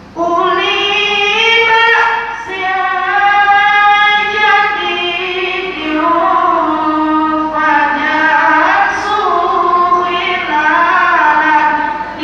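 A girl's high voice reciting the Qur'an in melodic tilawah style, starting abruptly and holding long, ornamented notes that glide up and down in pitch.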